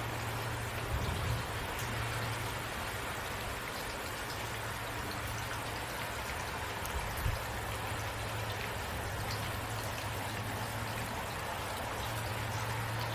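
Steady rain falling: an even hiss with scattered faint drop ticks over a low, constant rumble. There are two soft low bumps, about a second in and around seven seconds.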